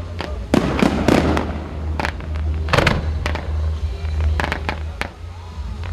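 Fireworks bursting: a rapid, irregular series of sharp bangs and crackles. The heaviest reports come about half a second in, about a second in, and near three seconds, over a steady low rumble.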